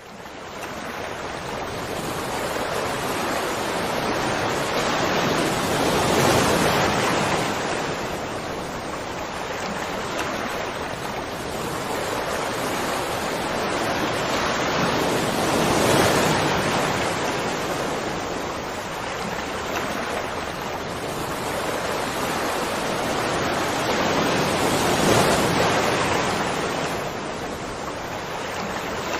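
Rushing water, a dense steady roar that fades in from silence at the start and swells and eases in slow surges about every nine to ten seconds.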